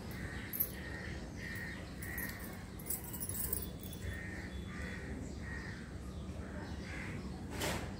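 A bird calling over and over, short calls about twice a second in runs with pauses. Light clinks about three seconds in and one sharp click near the end.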